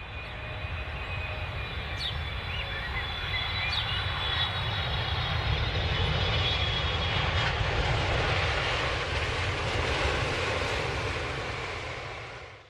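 Airplane engine noise as an aircraft flies over: a steady rushing drone that swells, holds, then fades away near the end.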